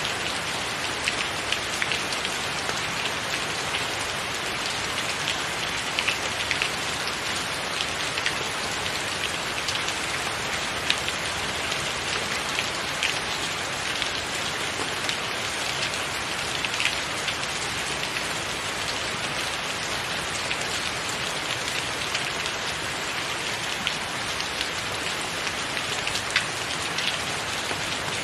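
Steady heavy rain falling on a tiled roof, a dense even patter with scattered louder drop hits.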